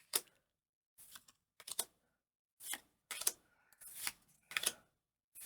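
Trading cards being handled and flipped one by one, giving a string of soft, short clicks and slides, about one every half second to a second.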